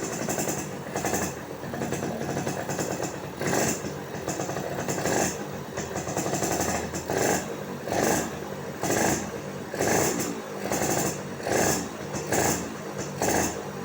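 Yamaha V80's single-cylinder two-stroke engine running through a Yamaha F1ZR exhaust, blipped to a brief rev about once a second between spells of idle.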